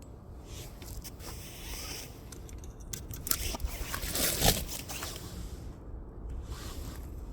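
Burning firewood crackling, with scattered sharp pops and a brief swelling hiss about four seconds in.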